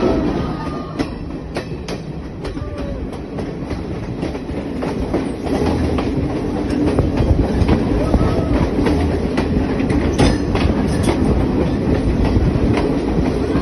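Passenger train running along the track, heard from an open carriage doorway: a steady rumble of wheels and carriages with scattered clicks and clacks over the rails, growing louder after the first few seconds.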